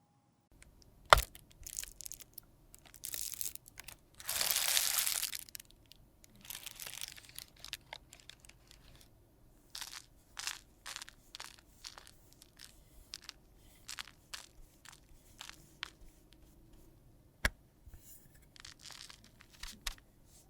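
Close-miked handling of makeup products and tools: a sharp click about a second in, a loud rasping noise lasting about a second and a half around four seconds in, then scattered small taps and clicks, with another sharp click near the end.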